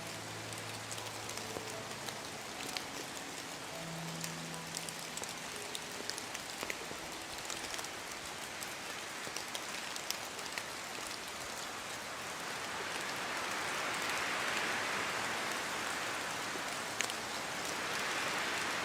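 Steady rain falling on a surface, with scattered sharp drop ticks; it swells louder about two-thirds of the way through.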